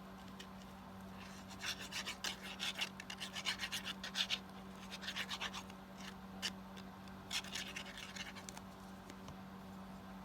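Paper being rubbed and handled by hand: quick scratchy strokes in three short spells.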